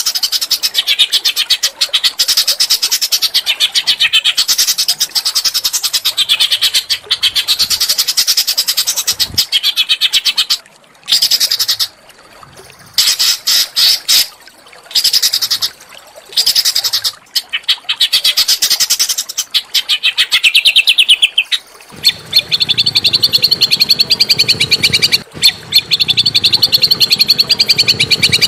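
Small songbird singing a loud, fast chattering trill of rapidly repeated high notes, broken by a few short pauses midway. In the last few seconds the trill turns steadier and higher, over a low rumbling background noise.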